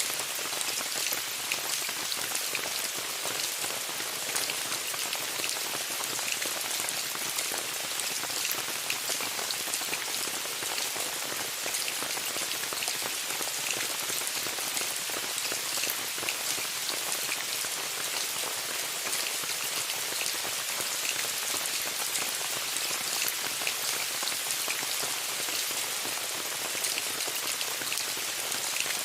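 Steady rain falling on a tent: an even hiss dense with small, sharp drop impacts, with no change in strength.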